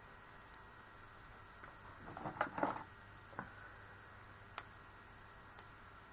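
Faint handling of card on a craft table: a brief cluster of soft rustles and taps about two and a half seconds in, and a few single light clicks after it, over a faint low hum.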